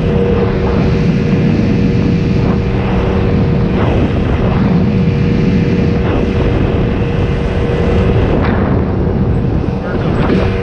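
Motorboat under way, its engine running steadily at speed over a constant wash of wind and water noise.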